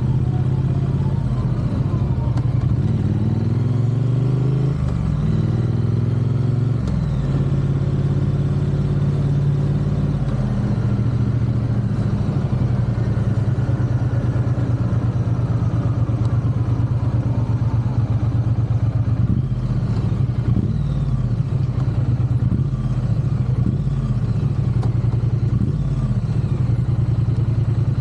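Triumph parallel-twin motorcycle engine running on the move. It revs up through two gear changes a few seconds in, then holds a steady cruise with small throttle changes.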